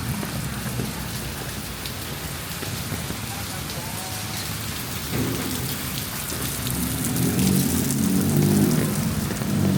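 Heavy rain hissing steadily, with a tuk-tuk's small engine running low underneath and getting louder over the last few seconds as it speeds up.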